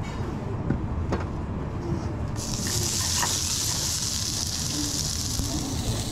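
Food dropped into hot oil and starting to sizzle: a steady hiss sets in suddenly about two and a half seconds in, over a low kitchen rumble and a couple of small knocks before it.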